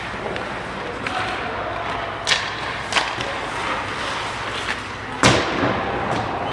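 Three sharp thuds over steady background noise, the loudest about five seconds in.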